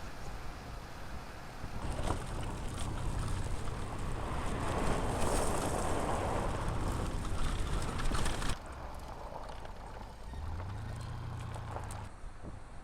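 A 2023 Chevrolet Colorado Trail Boss pickup driving off-road: engine, tyre and wind noise. The sound changes abruptly between shots about two, eight and a half, and twelve seconds in, loudest in the middle.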